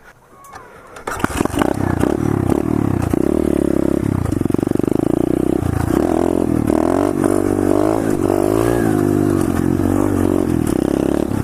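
The single-cylinder four-stroke engine of a 125cc SSR pit bike pulls away about a second in and runs hard, its pitch rising and dropping back repeatedly as it revs up and is throttled through the gears.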